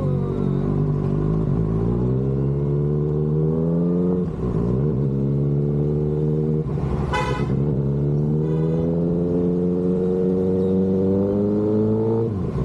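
Kawasaki ZX-6R inline-four sport bike engine pulling up through the gears. Its pitch climbs steadily, then drops at a gear change about four seconds in and again near the end. A brief horn honk sounds about seven seconds in.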